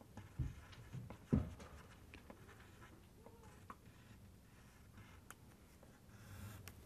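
Faint scratching and ticking of a drawing tool moving on paper, with two soft thumps in the first second and a half.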